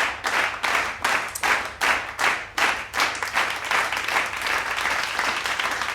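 Hands clapping in a quick, even rhythm of about four claps a second, becoming denser and less distinct from about halfway through, like more than one person applauding.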